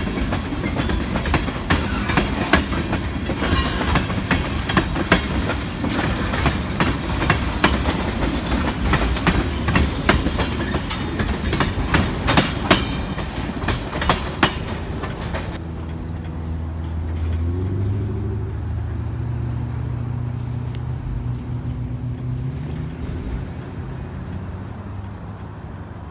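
Carolina Coastal Railway train rolling past slowly, its wheels clicking and clattering over the rail joints. About 15 s in the clatter stops abruptly and a diesel locomotive's engine drone remains, fading toward the end.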